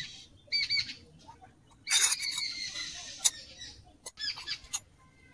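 Small birds chirping in short calls, once just after the start and a few times about four seconds in. About two seconds in comes a brief scratchy hiss, followed by a single sharp click.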